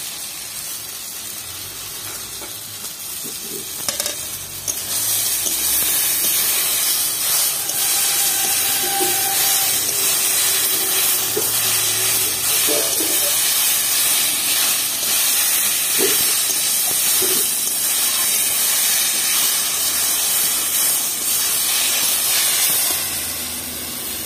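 Spinach, eggplant and dal bori sizzling and hissing with steam in a hot kadhai as they are stir-fried with a metal spatula. There are a few light scrapes of the spatula, and the hiss grows louder about five seconds in.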